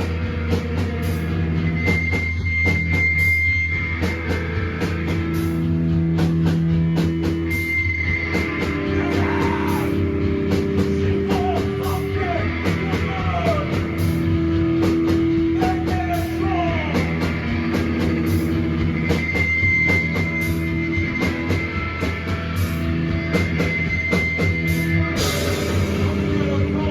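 Live rock band playing a song on electric guitar, bass and drum kit, with dense cymbal and drum hits.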